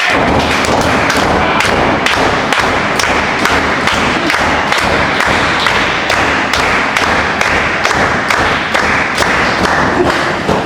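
Loud, continuous crowd noise broken by many sharp thuds and claps, several a second.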